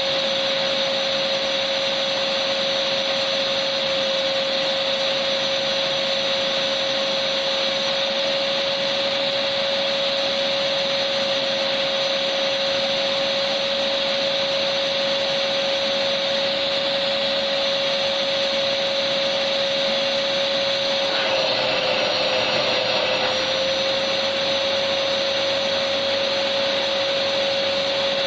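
Electric vacuum cleaner running steadily, a constant whine over a broad hiss; the whine dips slightly in pitch for about two seconds roughly three quarters of the way through, then settles back.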